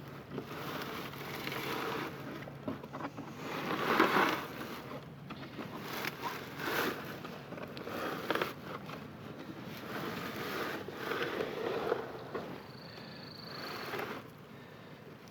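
Irregular rustling and scraping, loudest about four seconds in, with wind on the microphone.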